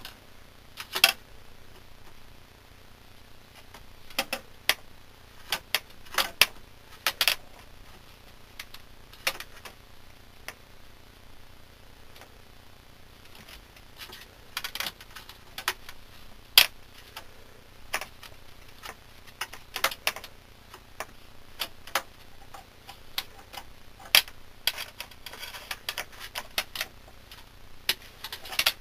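Irregular light clicks and rattles of small hard objects being handled, coming in short clusters with pauses between them. The loudest clicks fall about a second in, around 7 seconds in and near 16 seconds in.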